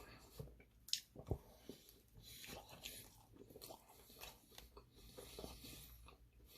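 Quiet close-up chewing and biting of food, with two sharp crunches about a second in.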